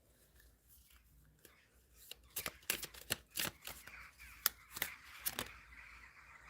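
A deck of tarot or oracle cards being shuffled by hand, a quick run of sharp card snaps and flicks starting about two seconds in, then a softer rustle.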